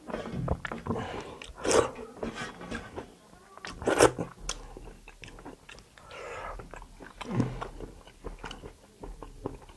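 Close-up eating sounds: a person biting and chewing kalij pheasant meat, with wet smacking and crunching and two louder bites about two and four seconds in.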